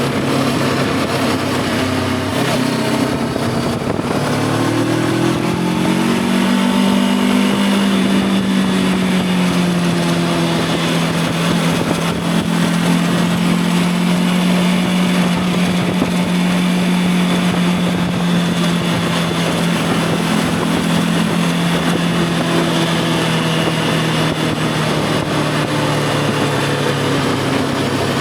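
Voge 525 DSX parallel-twin engine riding under way with wind rushing past: it changes gear about two seconds in, the engine note climbs as the bike accelerates, then holds a steady cruising pitch, easing off slightly near the end.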